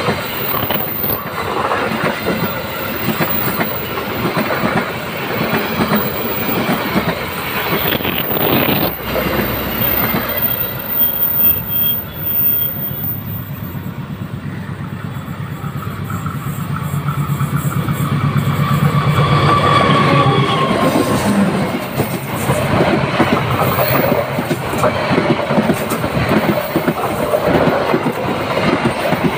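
A train passing close by: continuous rolling of steel wheels on the rails with clickety-clack over the rail joints. It swells just past the middle, with a low steady hum for a few seconds.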